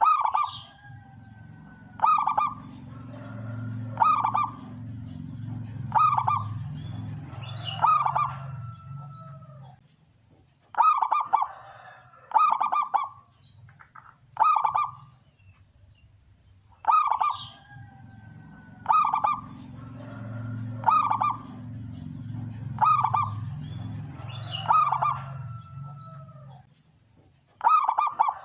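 Male zebra dove (perkutut) singing, its short sharp cooing phrases repeated about every two seconds with a brief pause midway. A low hum runs beneath the song for two stretches of several seconds.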